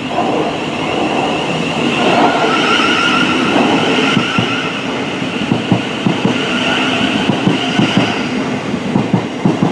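A train passing close by, with a steady high whine over most of the first two-thirds, then its wheels clattering over rail joints in quick, uneven clicks from about halfway on.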